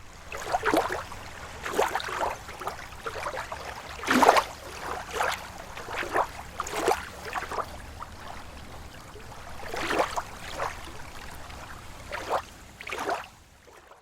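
Small, slow waves lapping against a lake shore: irregular wet splashes and gurgles every second or so over a steady low wash, with the biggest splash about four seconds in.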